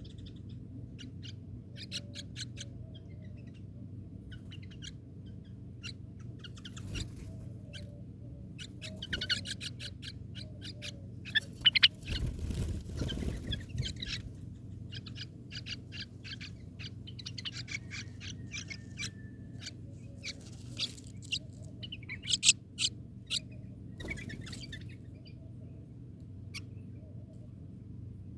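Birds calling in runs of short, high chirps, busiest around a third of the way in and again later, over a steady low hum.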